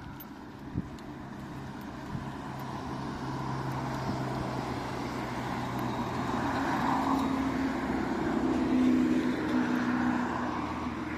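A road vehicle approaching and passing, its engine hum and tyre noise growing louder to a peak about nine seconds in, then easing off near the end.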